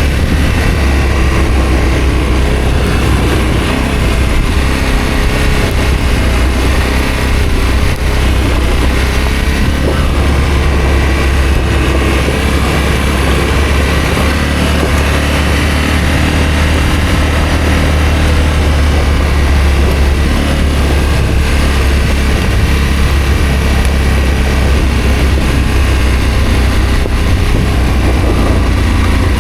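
Adventure motorcycle engine running steadily as the bike is ridden, under a heavy low rumble.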